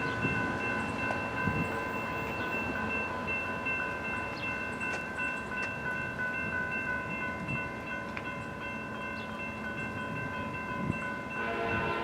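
Train sounds at a railway station: a steady high whine made of several held tones, some of them pulsing, over a low rumble. About eleven seconds in, a louder sound with many tones comes in.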